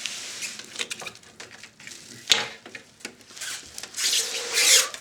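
Handling noises as a heavy video recorder is moved about on a work surface: scattered clicks, a sharp knock a little over two seconds in, and a louder rubbing, scraping noise near the end.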